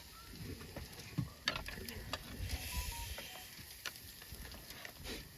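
Meat sizzling faintly on a grill, with scattered light clicks, likely from utensils.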